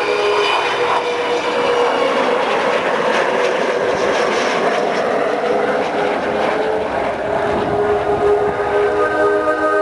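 Avro Vulcan bomber's Olympus turbojet engines during a display pass, a loud jet noise that swells about a second in and eases near the end. Faint PA music runs underneath.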